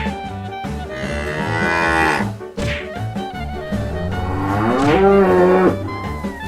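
A cow mooing twice, each call long and rising then falling in pitch, over background music with a steady beat.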